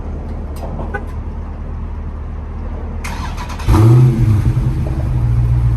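A Dodge Charger Scat Pack's 392 (6.4-litre) Hemi V8 on its stock exhaust is cranked and fires about three and a half seconds in, with a sudden loud start-up flare. It then settles into a steady fast idle, over the hum of an engine already running.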